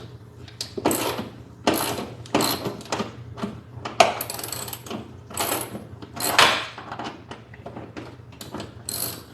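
A hand ratchet wrench clicking in short strokes, one rasp after another at an uneven pace, as a car's seatbelt anchor bolts are worked loose.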